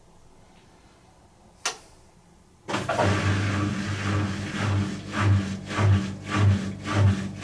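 Electrolux EW6SN306SPX slim front-loading washing machine starting its cycle. A single click comes about a second and a half in. About a second later the machine starts up suddenly with a steady hum and a rhythmic swelling pulse about twice a second.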